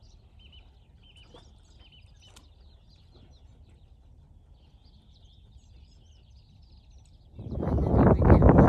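Faint, short bird chirps over a quiet outdoor background. About seven seconds in, a loud buffeting rush of wind noise on the microphone sets in.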